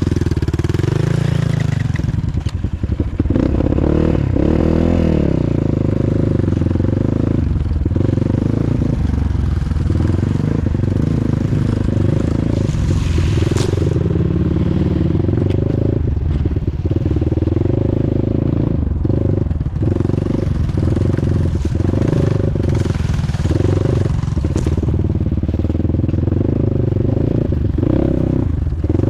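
Off-road motorcycle engine running under load, its revs rising and falling, with some clatter and scraping.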